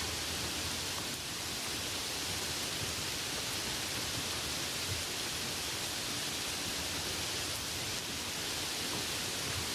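Light rain falling steadily, an even hiss of raindrops with a few faint individual drop ticks.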